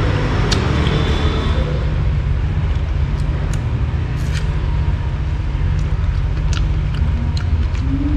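A steady low rumble of background noise, with a few short sharp clicks scattered through it.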